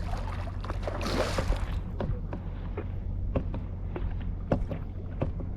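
Knocks and clicks of gear being handled in a kayak, with a brief rush of water about a second in, over a steady low wind rumble on the microphone.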